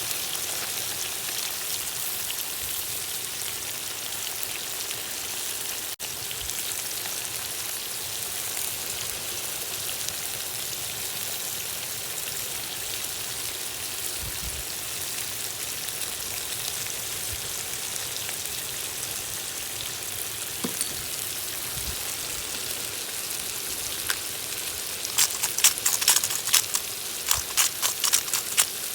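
Food frying in hot oil in a kazan: a steady sizzle, breaking into a burst of loud crackling pops over the last few seconds.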